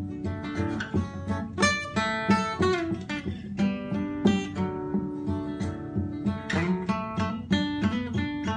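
Acoustic guitar playing an instrumental break, picked and strummed notes with some string bends, and no singing.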